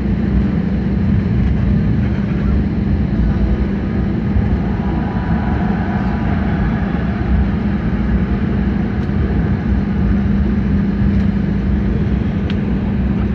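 Jet airliner engine noise heard from inside the cabin: a loud, steady drone with a constant low hum and rumble.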